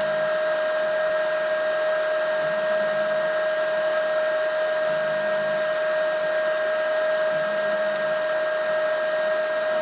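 A steady mechanical hum with a constant high whine over a hissing, whirring background, unchanging throughout.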